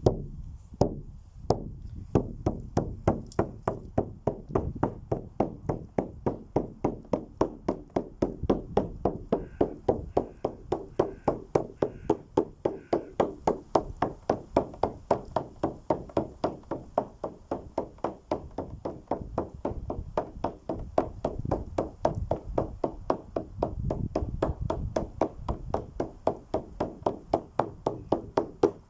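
Steady rhythmic beating, about three sharp strikes a second, keeping an even pace.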